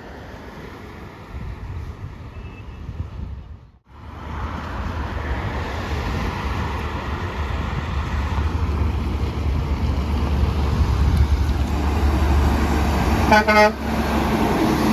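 Truck passing with its engine rumble growing louder as it approaches, then a short horn blast near the end. The audio cuts out sharply about 4 s in before the approach begins.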